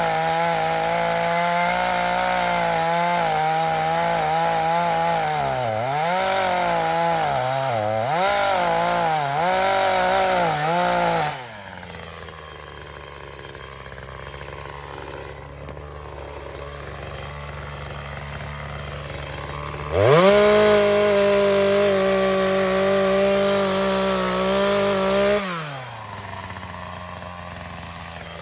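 Two-stroke chainsaw cutting dead pine wood, its engine pitch dipping again and again as the chain bogs under load. About eleven seconds in it drops to idle, revs back up to a steady high pitch for about five seconds near two-thirds of the way, then settles to idle again.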